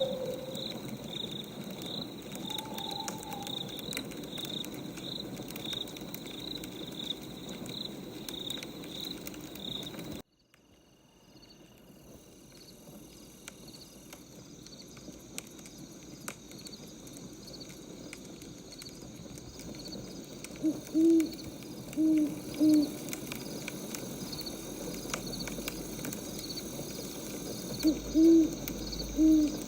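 Night-time ambience of firewood crackling with insects chirping in a steady high pulse, about one and a half chirps a second. The sound cuts out abruptly about a third of the way in, then fades back in. An owl hoots several times in short pairs in the second half.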